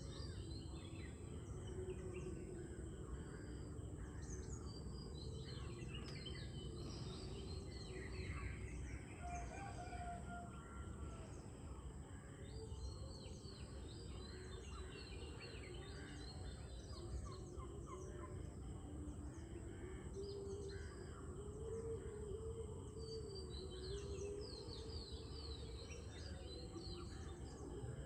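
Many birds chirping and calling at once in a sunrise chorus, over a steady low background rumble.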